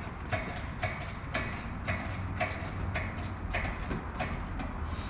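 Steady mechanical clicking, about two evenly spaced clicks a second, over a low hum.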